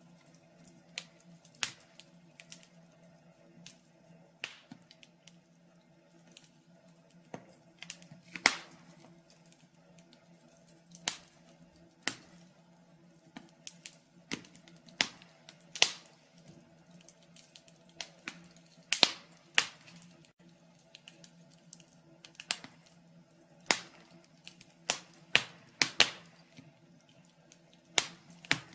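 Wood fire in a fireplace crackling: sharp, irregular pops, about one or two a second, over a faint steady hum.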